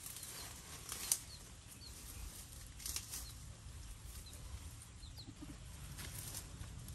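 Birds: faint wing flapping and rustling in short bursts, with a few brief high chirps.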